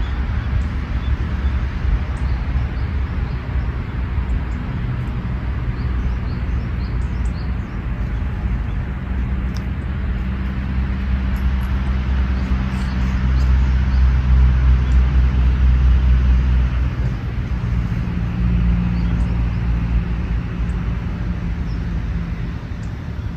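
A motor vehicle's engine running with a low, steady hum that grows louder a little past the middle and then eases off, heard over general outdoor background noise. Faint small bird chirps come and go above it.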